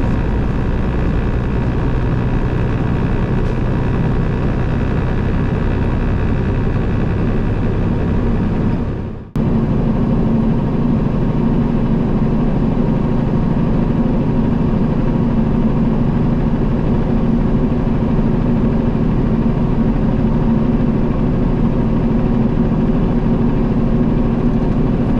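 Peterbilt 389 semi truck's diesel engine running steadily while driving, heard from inside the cab. The sound briefly drops out about nine seconds in, then carries on.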